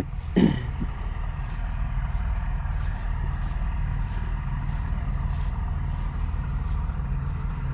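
Diesel semi-truck engine idling nearby: a steady low rumble. A short voice-like sound comes just after the start.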